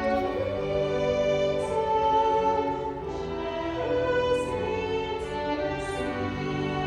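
Violins and piano playing slow, sustained music while a singer holds long notes over them.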